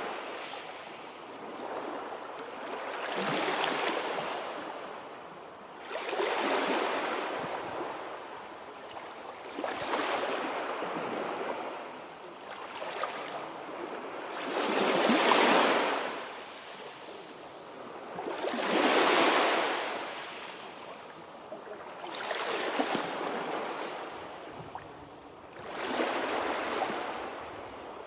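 Sea waves breaking and washing onto the shore, a rushing hiss that swells and ebbs every three to four seconds, some surges louder than others.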